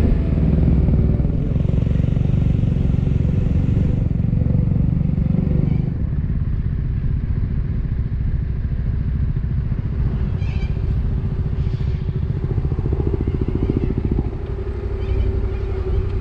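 Motorcycle engine running steadily, a little quieter after about six seconds.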